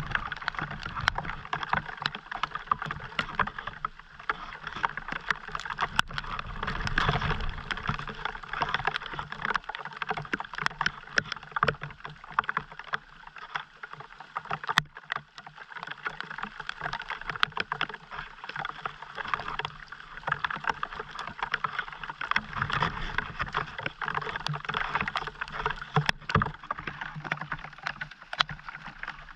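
Steady rain falling, with a dense scatter of separate drops ticking over a constant hiss.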